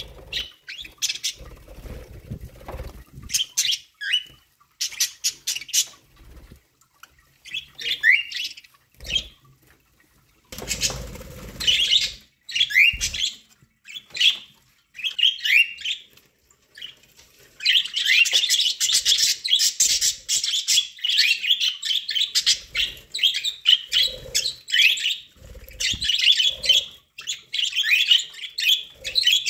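Pet budgerigars chirping and chattering, scattered calls at first that become a continuous chatter about two-thirds of the way through. Bursts of low rustling sound near the start and about a third of the way in.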